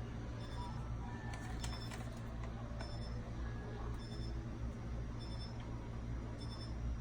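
Refrigerator running with a steady low hum, with a short high beep repeating about once a second and a few light clicks between one and a half and two and a half seconds in.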